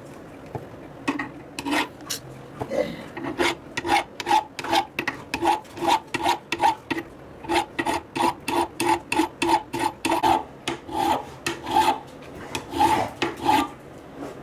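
Hand file rasping over the hammer in quick, even back-and-forth strokes, about two to three a second, with a brief pause near the end.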